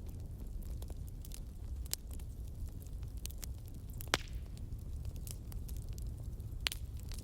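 Fireplace fire crackling, with irregular sharp pops over a steady low rumble; the loudest pops come about four seconds in and again near the end.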